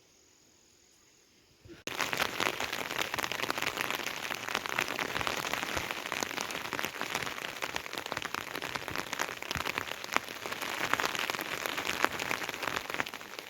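Heavy rain, starting abruptly about two seconds in after near quiet: a dense, loud downpour with countless sharp drop hits on a surface.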